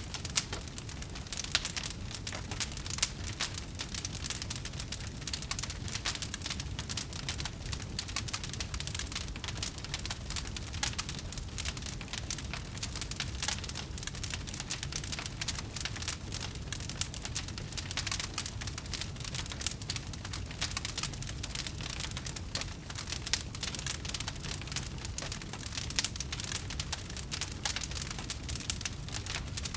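Campfire crackling: a dense, irregular stream of small pops and snaps over a steady low rumble of burning.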